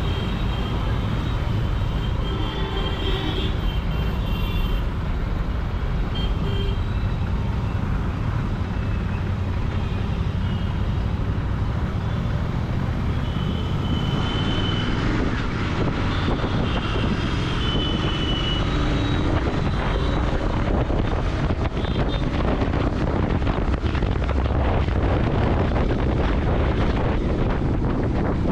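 Royal Enfield Continental GT 650's parallel-twin engine and exhaust running steadily on the move, with road and traffic noise around it.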